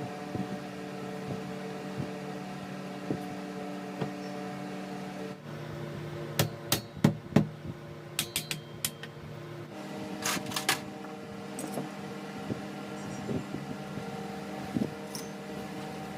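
Steady hum of a table fan, dropping lower in pitch for a few seconds in the middle. Over it come a run of sharp clicks and knocks from metal parts and tools being handled between about 6 and 11 seconds in.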